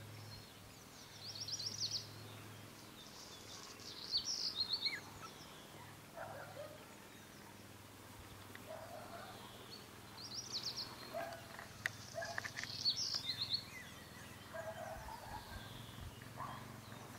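A songbird singing in short, high-pitched phrases of quick trills, four phrases with pauses between them, with a few softer, lower short notes in between.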